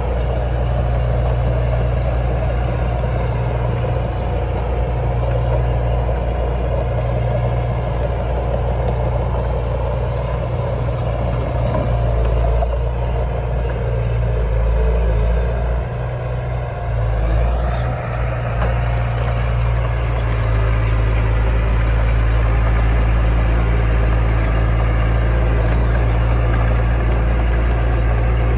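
Heavy diesel engine of earthmoving machinery running steadily, with a brief dip in loudness about two-thirds of the way through.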